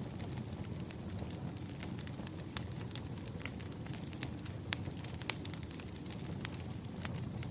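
Firewood burning: a steady low rush of flame with frequent sharp crackles and pops at irregular intervals, a few of them louder than the rest.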